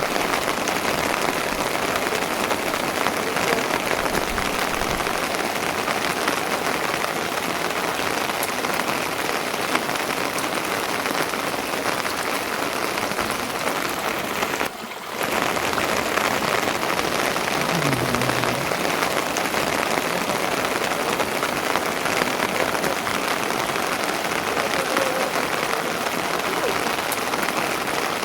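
Steady rain falling and pattering on a surface, with a brief drop in level about halfway through.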